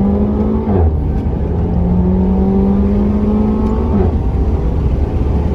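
Renault Mégane RS's 1.8-litre turbocharged four-cylinder on its factory exhaust, accelerating hard with a gradually rising engine note. The pitch drops sharply twice, at upshifts about a second in and about four seconds in, then holds steady.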